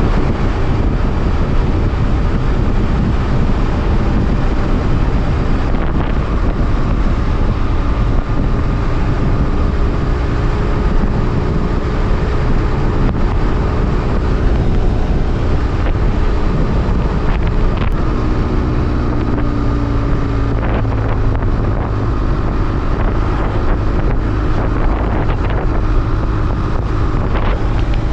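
BMW F800R parallel-twin motorcycle engine running while riding, largely buried under heavy wind noise on the microphone. The engine note shifts in pitch about two-thirds of the way through.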